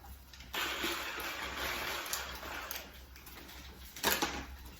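Electric hand mixer whirring in a bowl of funnel cake batter from about half a second in until nearly three seconds, then dropping away, with a brief louder knock about four seconds in. The mixer is struggling on its low setting, and its whisk attachment is broken.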